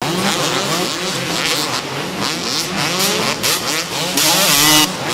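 Several motocross motorcycle engines revving at once, their pitches rising and falling over each other as the bikes race. A loud hissing rush comes about four seconds in.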